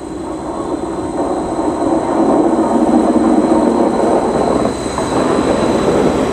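Class 231 Stadler FLIRT diesel multiple unit passing close by. The rumble of its diesel power pack and its wheels on the rails builds over the first couple of seconds and stays loud as the carriages go by.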